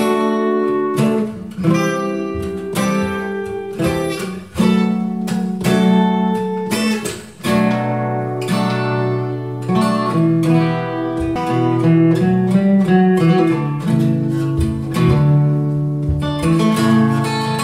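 Instrumental break of a song: acoustic guitar picking a run of notes over held bass notes, with no singing.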